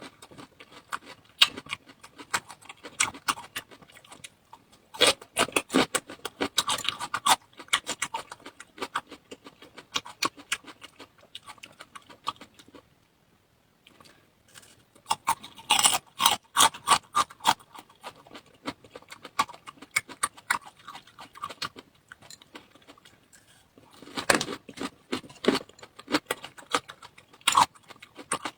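Close-miked eating sounds: chewing and handling food, heard as dense runs of sharp clicks and crackles, with a short pause a little before halfway.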